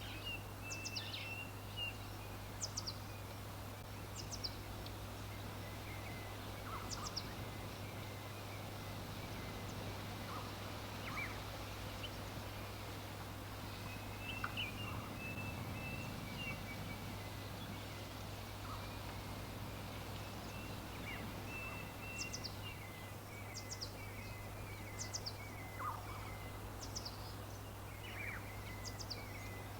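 Songbirds calling: short, high, downward-sweeping chirps every second or two, and runs of quick repeated notes lower down. Under them are a steady low hum and an even hiss.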